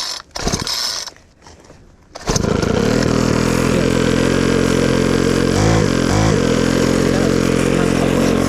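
Four-stroke weed whacker engine catching about two seconds in, then running steadily at idle, its pitch wavering briefly a little past the middle; the throttle cable is too loose to pull the carburetor open, so the engine does not rev up.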